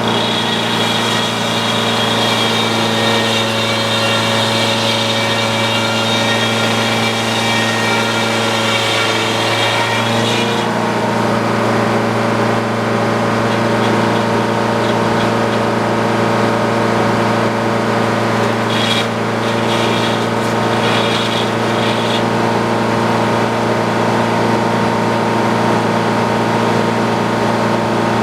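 Sawmill engine running steadily under load while the blade cuts a white pine log. A high whine over the engine drops away about ten seconds in, and the engine keeps running at the same pitch.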